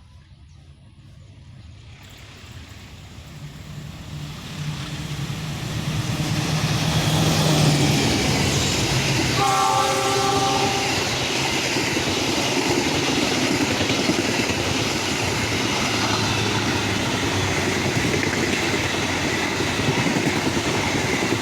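A train approaches, growing steadily louder over the first several seconds. Its horn sounds once, a chord of several tones lasting about a second and a half, near the middle. It then passes close by with a steady, loud rush of wheel and rail noise.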